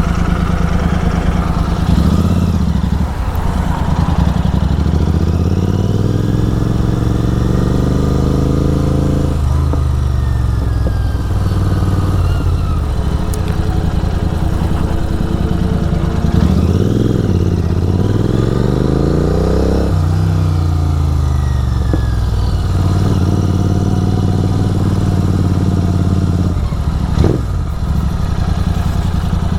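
Triumph Speed 400's single-cylinder engine through an aftermarket exhaust, running hard at highway speed. The pitch climbs under throttle from about 6 s and drops sharply near 9.5 s. It climbs again from about 16 s and falls away after 20 s.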